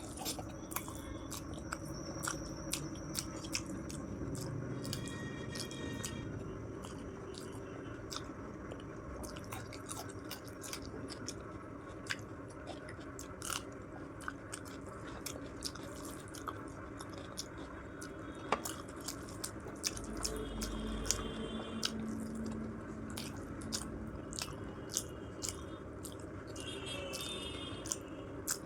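A person chewing a large mouthful of food close to the microphone, with many short mouth clicks and smacks throughout.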